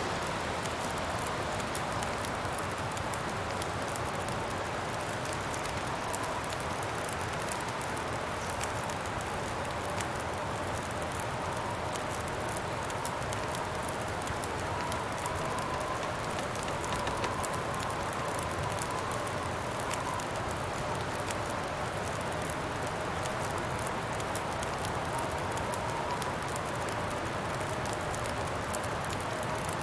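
Steady wind with a faint wavering howl, over a campfire crackling with many small pops.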